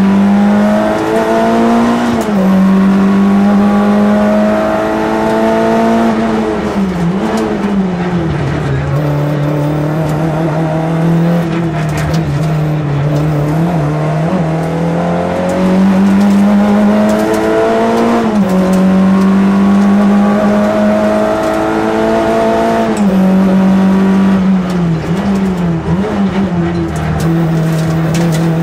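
Citroën AX GT rally car's engine heard from inside the cabin, driven hard on a special stage. The engine note climbs and falls back several times as the driver works through the gears, over steady tyre and road noise.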